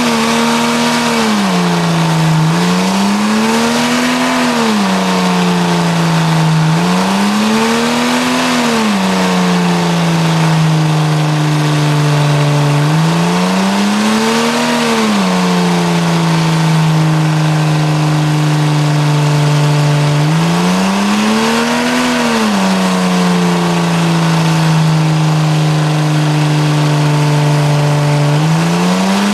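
A Jeep Cherokee XJ's engine held at high revs through a tyre-smoking burnout. Its pitch surges up and falls back about five times over the steady run.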